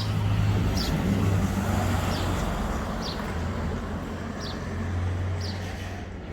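A road vehicle's engine running close by in the street: a steady low hum that swells in the first second and eases off towards the end.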